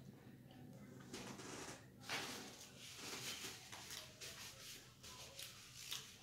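Faint eating sounds: a mouthful being chewed, with irregular wet clicks, and soft rustles of a paper napkin as greasy hands are wiped.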